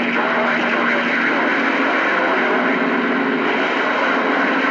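CB radio receiver static: a steady hiss through the radio's speaker with faint, garbled voices of distant skip stations buried in the noise and a low steady tone under it.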